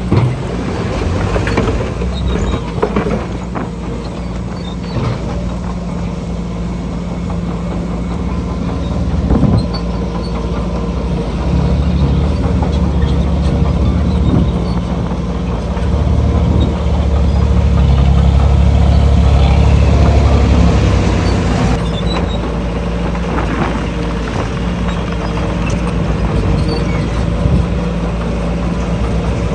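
Diesel engine of heavy earthmoving machinery running under load, with a deep steady drone that grows louder and heavier for several seconds near the middle, and a few sharp metallic knocks.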